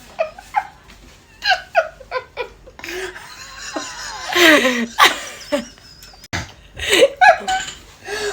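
Women laughing in short bursts of giggles, with a longer, louder laugh about four to five seconds in.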